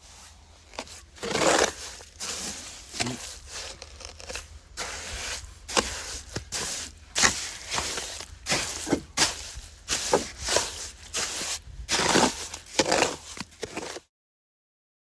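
Irregular clicks, taps and scrapes of small hard objects being handled, over a low steady hum; the sound cuts off abruptly near the end.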